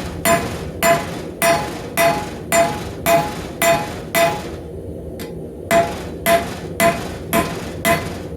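Hand hammer striking hot steel rebar on an anvil at about two blows a second, each blow ringing briefly with a clear pitch, with a pause of about a second and a half in the middle. The smith is flattening out the rebar's ridges at the blade end of a forged knife.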